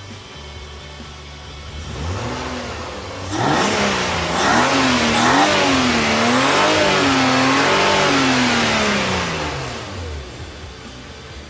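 BMW Z3 engine being revved: the note climbs from idle, swings up and down in several quick blips, then falls back down.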